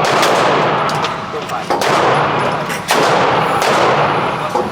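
Gunshots on an indoor firing range: several loud shots a second or so apart, each followed by a long echoing tail off the range walls.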